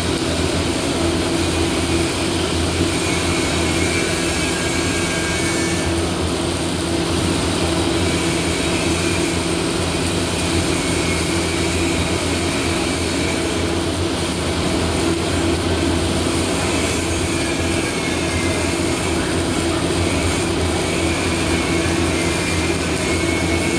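Steady welding-shop noise: a constant electrical hum from welding machines under an even hiss, with no break or change.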